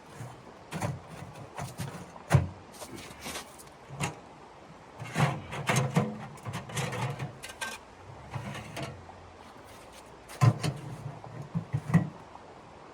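Irregular knocks, thumps and rustling of things being handled, in several clusters with sharp single knocks among them.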